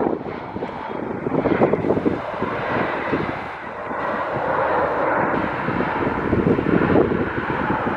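Airliner engines running, with wind buffeting the microphone. The engine noise swells through the middle of the stretch.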